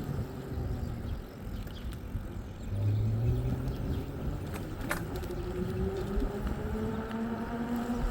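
A vehicle engine running under a steady low rumble. Its pitch drifts up and down with speed, with a stronger low hum about three seconds in.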